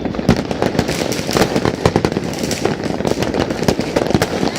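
Dense, continuous crackle and bang of many fireworks and firecrackers going off at once, sharp reports overlapping on a steady rumble of more distant explosions.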